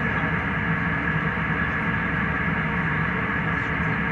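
Steady jet airliner cabin noise in flight: an even rush with a constant high tone and a low hum running through it.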